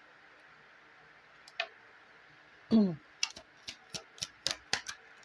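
Cartomancy cards being handled on a table: a small click, then a quick run of about eight sharp clicks and taps over two seconds, with a brief vocal sound just before them.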